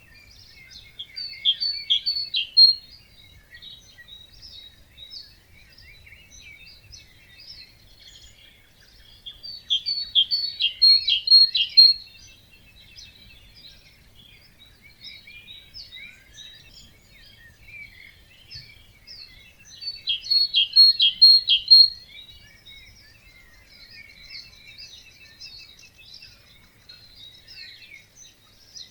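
Birds singing in a dawn chorus of many scattered chirps. One bird repeats a loud song phrase three times, about every ten seconds; each phrase is a quick run of repeated notes that grows louder towards its end.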